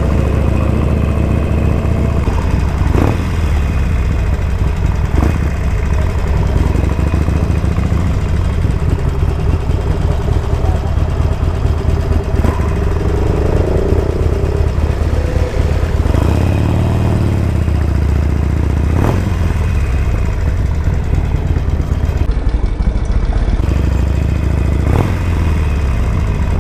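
Motorcycle engine running steadily while under way, with a few brief knocks now and then.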